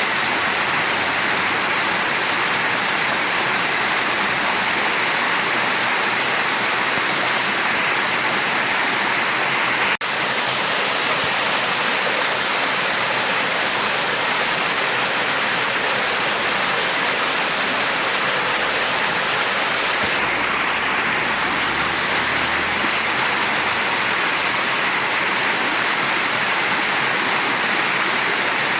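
Mountain stream running, a steady rush of water over rocks. There is a brief dip in level about ten seconds in.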